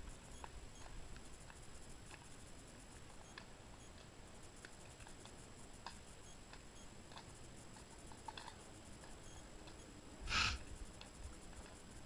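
A horse walking on a soft forest track: faint, irregular clicks and ticks of hoof steps and tack. About ten seconds in comes one brief, louder burst of noise.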